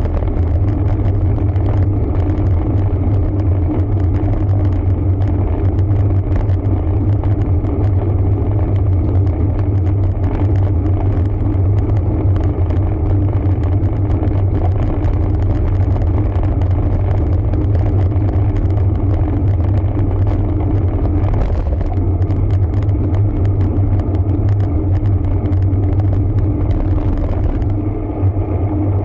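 Steady low rumble of wind and road noise on a road bike's onboard camera while riding, unbroken throughout, with a brief dip near the end.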